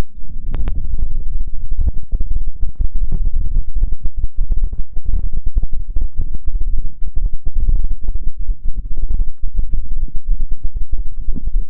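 Hands rubbing and cupping over the ears of a binaural ASMR microphone, giving a close, muffled rumbling with dense crackly rubbing. A brief sharp click comes about half a second in.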